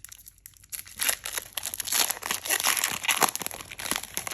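Foil booster pack wrapper crinkling as it is handled and torn open, starting about a second in.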